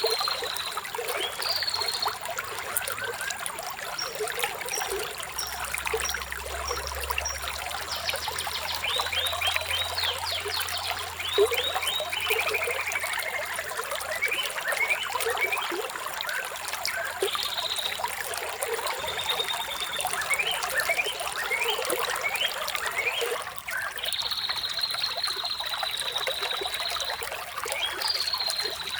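Running water trickling steadily, with birds chirping and trilling over it throughout, one bird giving a long trill near the end.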